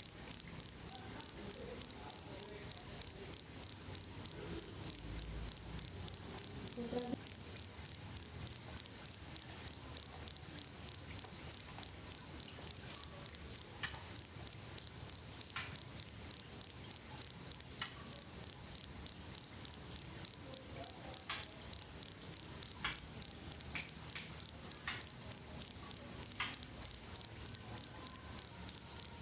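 Field cricket (jangkrik) chirping: a steady run of evenly spaced chirps at one high pitch, unbroken throughout.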